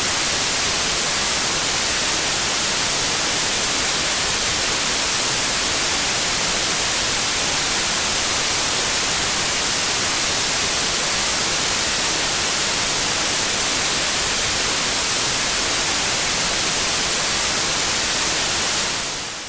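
Steady white noise: an even, bright hiss with no pattern in it, fading out near the end.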